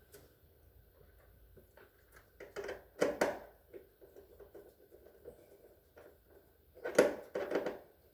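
Clicks and knocks of refrigerator parts being handled and fitted back in place, with two clusters of sharper clattering knocks about four seconds apart.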